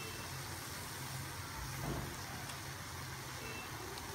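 Beef and baby corn frying in a steel wok: a faint, steady sizzle with a low hum underneath and a soft bump about two seconds in.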